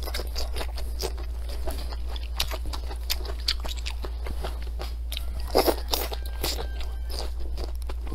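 Close-miked crunching and chewing of long green chili peppers, bitten off with repeated crisp crunches, with the loudest bite a little past halfway.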